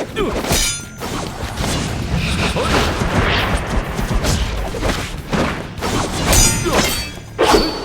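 Staged martial-arts fight sound effects: repeated impacts and crashes with whooshes, over dramatic background music, with the strongest hits about half a second in, around six seconds in and near the end.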